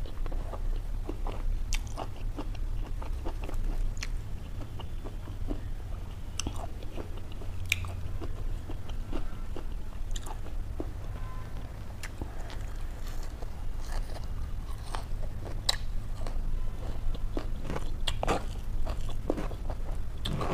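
A person chewing and biting food, with crisp crunches and small wet clicks scattered irregularly, over a steady low hum.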